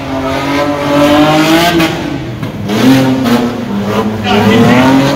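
Car engine revving hard, its pitch climbing and dropping back several times.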